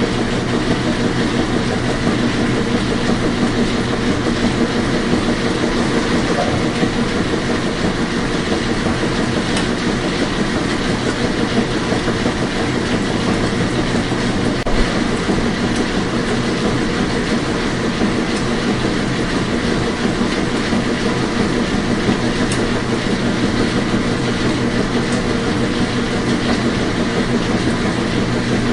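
Washing machine running steadily: an even rumble with a constant low hum that does not change.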